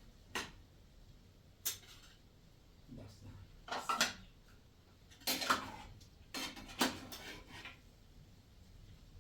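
Dishes and cutlery clattering: two single clinks, then several bursts of clinking and scraping.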